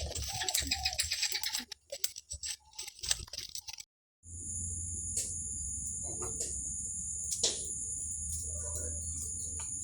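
Rapid, irregular crisp clicks and crackles for about four seconds. After a short break, a steady high-pitched insect drone, like crickets or cicadas, takes over with a few scattered clicks.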